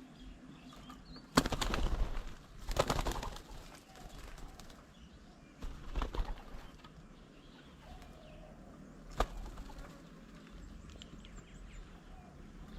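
Birds' wings flapping at a bird table in two loud flurries early on and a smaller one around the middle, with a sharp tap later and faint bird calls underneath.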